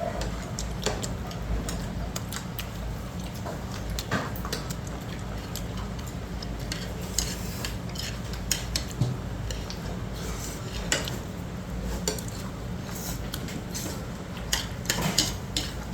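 Cutlery clinking and scraping against dishes during a meal, scattered light clicks over a steady low hum.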